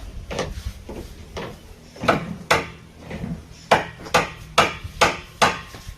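Hammer driving a nail into wood: a few lighter taps, then a run of five hard blows, about two and a half a second.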